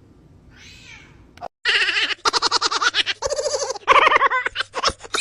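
A cat giving a run of rapid, warbling chattering calls in several short bursts.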